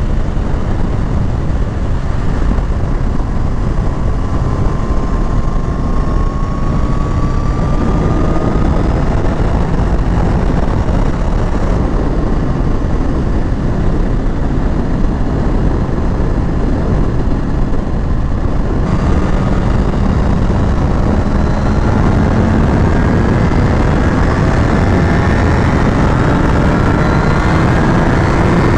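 Sport motorcycle being ridden at speed: heavy wind rush over the microphone with the engine's note underneath, rising slowly in pitch twice as the bike accelerates, the second time from about two-thirds of the way in.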